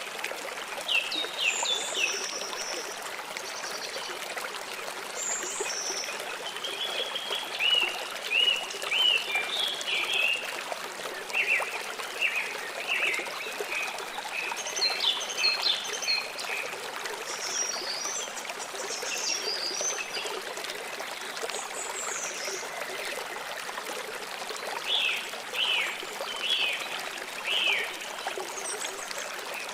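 Flowing stream water running steadily, with several birds chirping over it in short, repeated phrases throughout.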